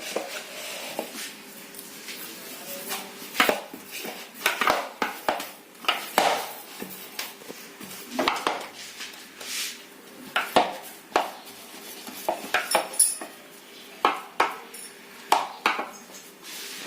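A spoon scraping and clinking against a mixing bowl while stirring a soft, sticky dough of flour, curd, milk and oil, in irregular strokes.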